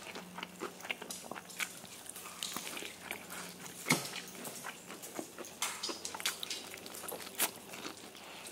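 Close-miked chewing of crispy fried chicken: irregular crunches and crackles of the fried batter between the teeth, with a few louder crunches along the way.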